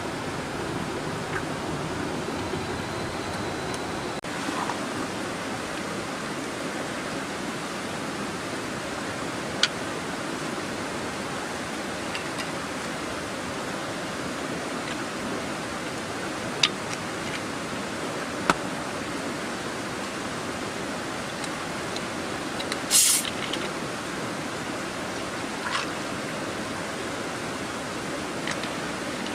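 Steady rushing of a mountain river, with a few sharp clicks scattered through and a short crackling burst about three-quarters of the way in.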